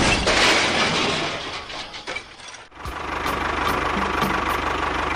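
A small motor or engine running with a steady, rapid chugging. It drops away briefly about two and a half seconds in, then carries on evenly.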